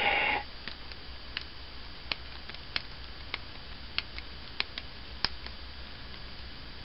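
Scattered light clicks and taps, irregular, about one or two a second, over a steady low hum.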